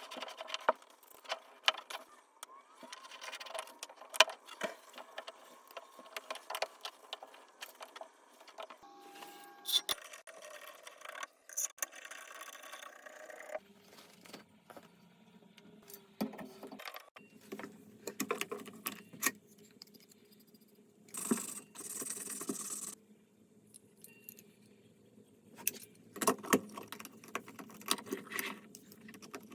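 Metal tools and fittings clinking, rattling and scraping during plumbing work on a shower valve, with a steady hiss lasting about a second and a half about 21 seconds in.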